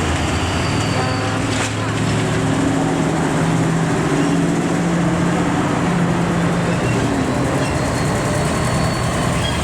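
Diesel truck engine running on the road, its note climbing slightly before fading about seven seconds in, over steady traffic noise.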